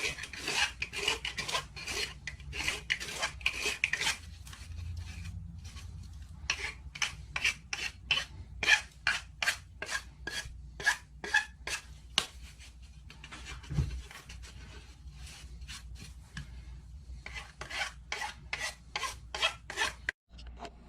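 Rhythmic back-and-forth rasping strokes of a hand tool working a pipe, about two to three strokes a second, in several runs broken by short pauses.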